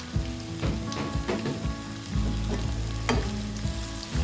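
Sliced onions and grated ginger sizzling in hot oil in a nonstick wok, with a spatula stirring them and scraping and tapping against the pan several times, over a steady low hum.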